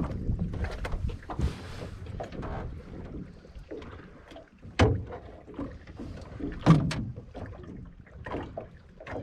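Wind rumbling on the microphone, with scattered knocks and thumps of fishing gear and a fish being handled as it is landed; the two loudest thumps come about five and about seven seconds in.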